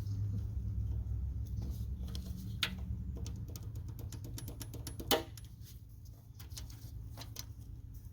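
Zip ties being snipped and parts handled while a motorcycle fuel tank is freed: scattered light clicks with two sharper snaps, about two and a half and five seconds in. A low hum runs underneath and fades out after about three and a half seconds.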